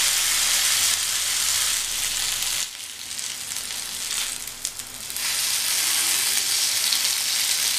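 Oil sizzling steadily in a grill pan as marinated paneer tikka skewers fry over a medium flame and are turned. The sizzle drops quieter for about two seconds in the middle, then returns.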